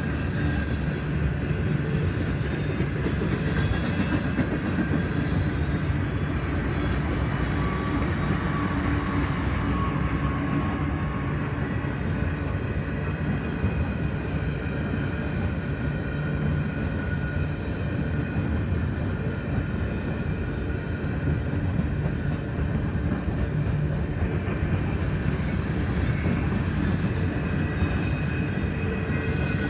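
CP grain train rolling past: a steady rumble of freight cars on the rails, with the drone of diesel locomotive engines in it. The engine tones ease off in the middle and come back stronger near the end.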